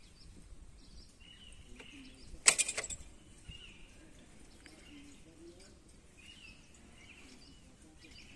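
Birds chirping in short, repeated calls in the background, with a brief sharp crackle about two and a half seconds in.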